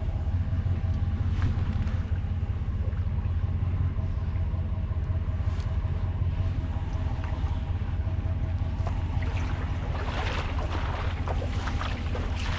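An engine running steadily under heavy wind buffeting on the microphone, with a rough crackling noise that rises about ten seconds in.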